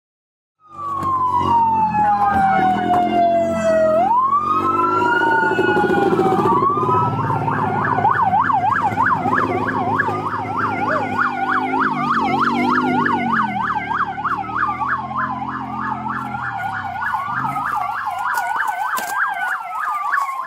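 Police car sirens: a wail falls slowly, then rises again, and from about a third of the way in a fast yelp runs alongside further wails, with two sirens overlapping. Underneath is a low vehicle engine rumble. The sound cuts in abruptly after a short silence.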